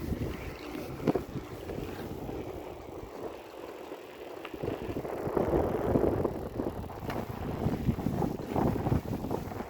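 Wind buffeting the microphone of a rider on a moving bicycle, coming in uneven gusts that swell about halfway through.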